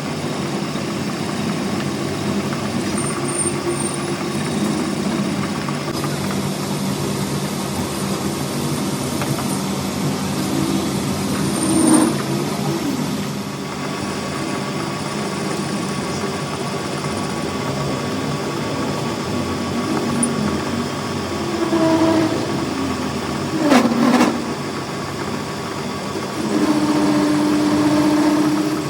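Workshop machinery running steadily with an engine-like hum, with a few short louder sounds about twelve seconds in and again around twenty-two and twenty-four seconds, the last a quick dip and rise in pitch.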